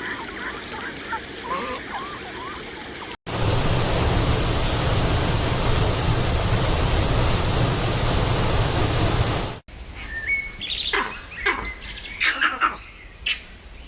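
Bird chirps in three short clips. Faint chirping comes first. It cuts to about six seconds of loud, steady rushing noise with a deep rumble, the loudest part. It then cuts to brisk chirps and calls.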